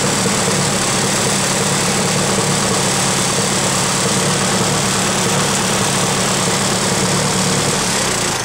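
Restored farm tractor's engine idling steadily after a cold start, then beginning to die away right at the end as it is shut off.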